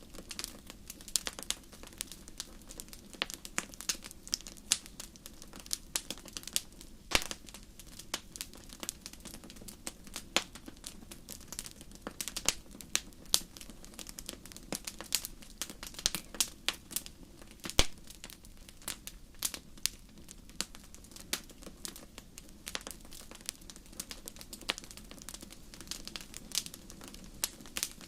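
Wood fire in a fireplace crackling, with irregular sharp pops and snaps over a faint steady low rumble.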